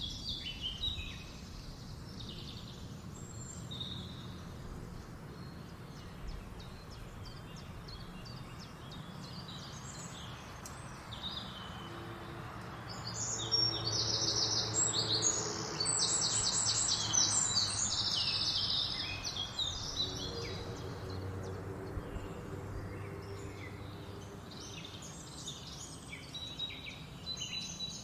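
Wild birds chirping and calling over steady outdoor background noise. About halfway through, a loud run of rapid trills sets in and lasts a few seconds.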